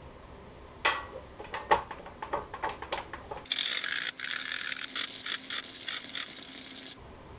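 Workshop handling noises: a run of sharp clicks and knocks, then a harsh, high rubbing noise with repeated strokes that starts abruptly about halfway through and cuts off suddenly about three and a half seconds later.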